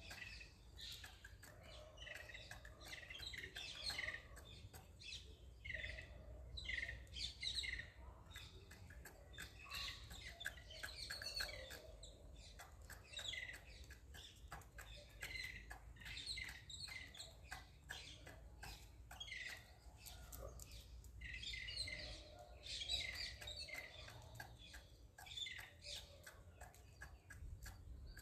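Small birds chirping in a busy, continuous chorus of short high chirps, over a faint low background rumble.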